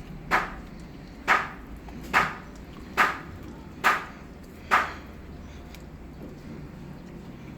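A dog crunching a hard dental chew treat: six sharp crunches, a little under a second apart, that stop about two-thirds of the way through.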